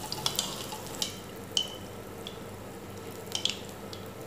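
A neyyappam (rice-and-jaggery batter fritter) frying in hot oil in a cheenachatti, with a steady sizzling hiss. A steel spoon ladles oil over its top, making several light, sharp clinks against the pan.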